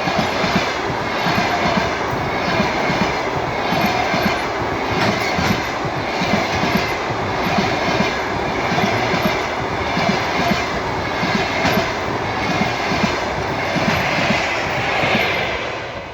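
A train passing close by at speed, its wheels clattering in a steady repeating rhythm over the rail joints.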